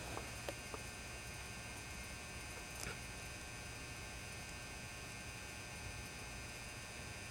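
Magnetic ballast of a 400-watt mercury vapour high-bay lamp humming steadily while the lamp burns; the hum is quiet. A few faint ticks come in the first three seconds.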